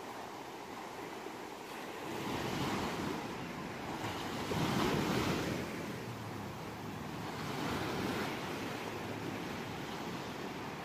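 Ocean waves breaking and washing ashore, coming in slow swells, with the biggest one about halfway through.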